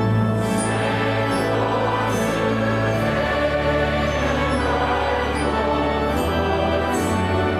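Choral church music: a choir singing sustained notes over instrumental accompaniment, with the bass line changing note a couple of times.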